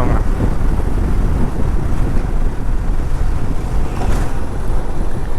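Steady wind rush on the microphone of a moving motorcycle, with the ride's road and engine noise under it.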